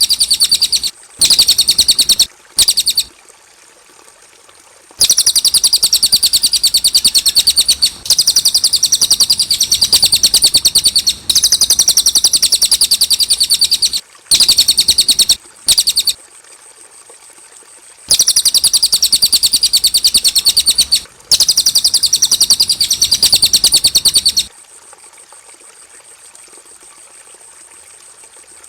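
Cililin songbird singing in long bouts of rapid, repeated high chirps, broken by short pauses, with a longer pause over the last few seconds.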